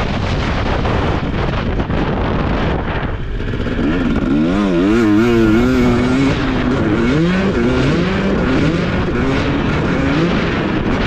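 Husqvarna TC250 motocross bike engine running hard on a dirt track, its revs rising and falling quickly several times in the middle as the throttle is worked, with wind rushing past.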